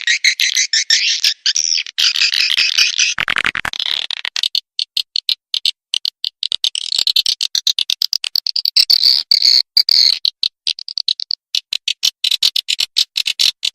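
Swiftlet calls on a lure recording: fast chattering trains of high clicks and chirps, with a brief buzzy rattle about three seconds in.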